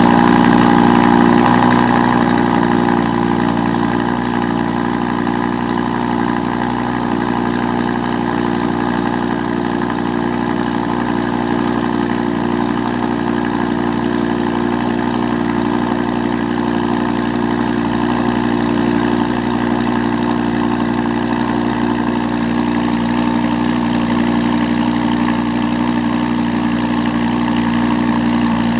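Car engine idling steadily, a little louder for the first two seconds, then holding an even note.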